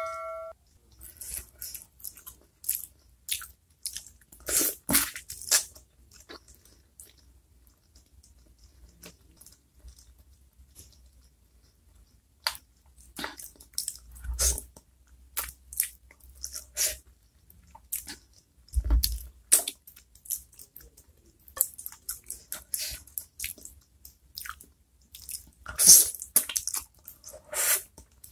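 Close-miked eating sounds: irregular wet chewing, smacks and small crunches as someone eats soft chicken feet in chili sauce. Two dull low thumps come about halfway through.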